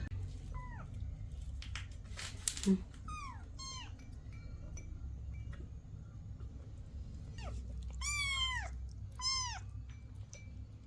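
Kittens meowing: about seven short, high calls, each falling in pitch, with a longer, louder meow about three-quarters of the way through. A sharp knock comes a couple of seconds in.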